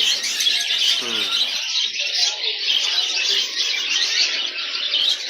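Many caged pet birds, cockatiels among them, chirping and squawking together in a continuous dense chatter of high calls.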